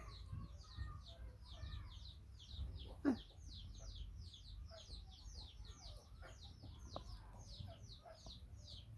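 A bird peeping: a fast, even run of short high descending calls, about four or five a second, with one short thump about three seconds in.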